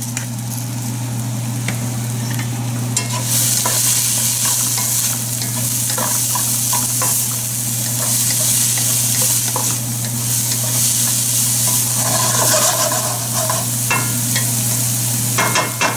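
Diced onion and green bell pepper sizzling in oil in a nonstick pan while being stirred with a wooden spatula, with scrapes and taps of the spatula against the pan. The sizzle grows louder about three seconds in, over a steady low hum.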